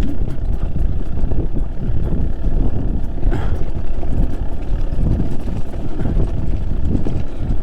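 Trail motorcycle engine running at low speed while riding a rough, rutted track, with most of the sound a dense low rumble.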